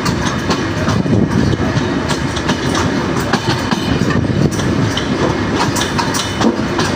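A moving train: a steady rumble of the wheels on the rails, with frequent sharp clicks and clacks.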